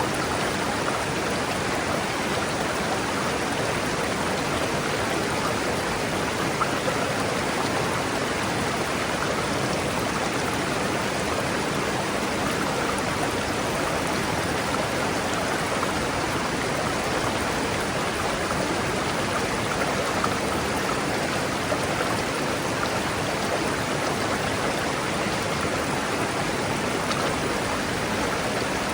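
River water rushing and splashing over rocks in a steady, even wash.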